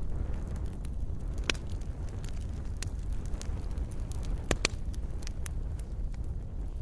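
Wood campfire burning: a steady low rumble of the flames with scattered sharp crackles and pops from the burning wood, two louder pops about a second and a half in and just past four and a half seconds.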